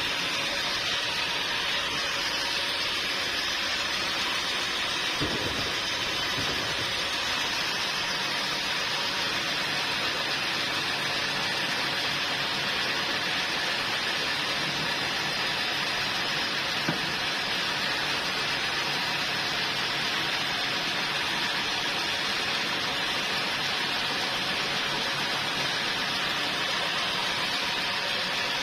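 Steady rushing noise at an even level throughout, with a few faint knocks.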